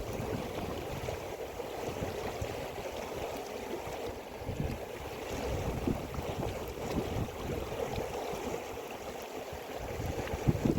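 River water flowing steadily, with some wind buffeting the microphone.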